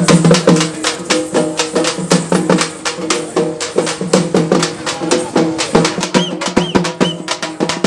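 Lambadi folk dance music: fast, dense percussion clicking in a steady rhythm over a sustained low melodic line.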